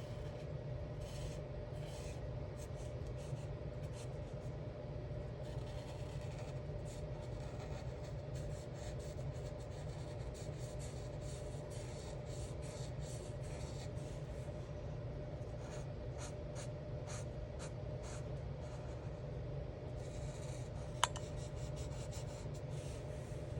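Alcohol marker tips stroking across colouring-book paper in many short strokes, some in quick runs. Under them runs a steady low hum with a faint constant tone, and there is one sharp click near the end.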